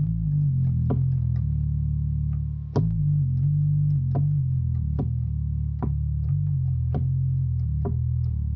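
Synth bass patch from the Omnisphere software synthesizer played as a low, sustained bass line that steps to a new note every second or so, with a short click at the attack of many of the notes.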